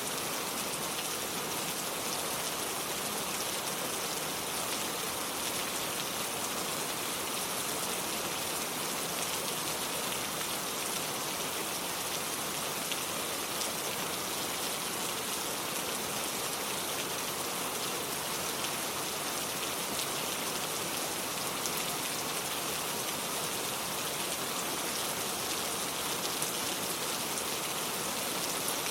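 Steady rain falling: an even hiss with faint, fine drop ticks scattered through it.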